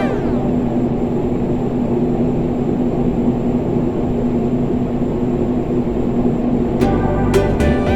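Electric fan running: a steady rushing air noise with a constant low motor hum. Music comes in near the end.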